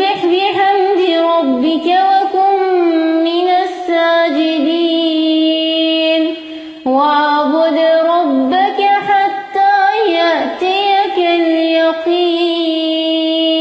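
A woman's voice reciting the Quran in a melodic, drawn-out style, holding long notes with ornamented turns. It comes as two long phrases with a brief breath about halfway.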